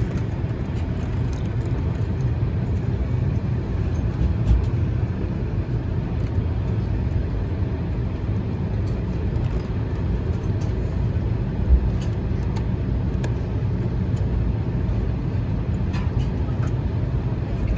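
Steady low rumble of an Airbus A220-300's cabin while the aircraft is powered at the gate, with a few faint clicks scattered through it.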